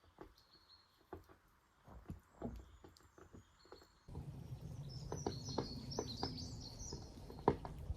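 Scattered soft knocks and crunches, then from about four seconds in a steady outdoor hiss with small birds chirping high and quick, and a few sharp knocks, the loudest near the end.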